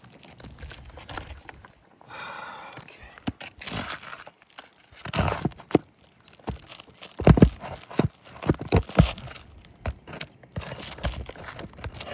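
A metal nail-pulling tool worked under a roof shingle to get at a stuck nail: irregular scraping and sharp metal knocks, the loudest cluster of knocks a little past the middle.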